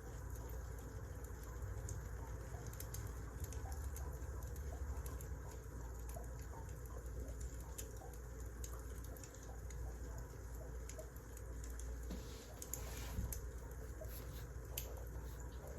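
Wood fire crackling: scattered small pops and snaps over a steady low rumble, with one louder snap about thirteen seconds in.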